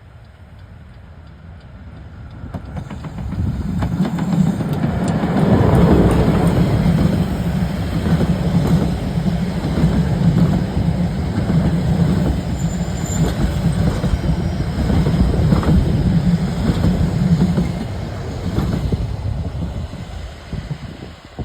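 Harz narrow-gauge steam train passing close by. It builds up over the first few seconds, stays loud for about fourteen seconds, then fades away.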